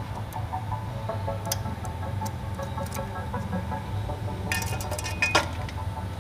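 Metal parts clinking and knocking as steel exhaust pipe sections are handled and fitted, with a short metallic ring about four and a half seconds in and a sharp clank just after. A steady low hum sits underneath.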